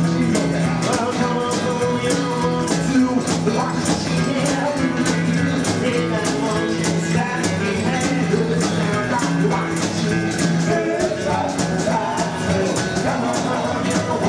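Live rockabilly band playing: drums keeping a steady beat under guitar and double bass, with some singing.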